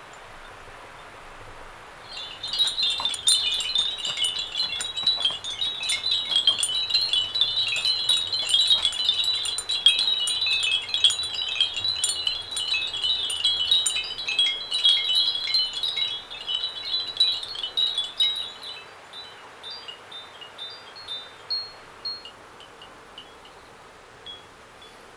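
Many handmade ceramic wind bells ringing together in the breeze, a dense jangle of overlapping high clinks. It starts about two seconds in and thins out to a few scattered single rings near the end.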